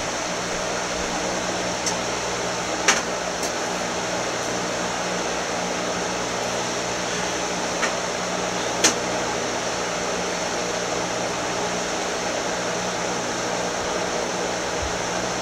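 Steady hum and hiss of a fan-like background noise, with a few short clicks or knocks about two, three, eight and nine seconds in.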